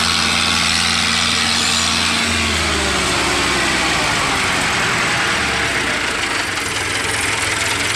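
Fiat 640 tractor's diesel engine running steadily while pulling a loaded sugarcane trolley; its low note shifts about two seconds in.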